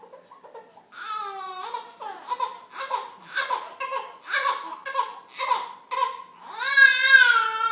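A 5-month-old baby babbling and squealing. A drawn-out high call comes first, then a string of short repeated sounds about two a second, then a long, loud squeal near the end that rises and falls in pitch.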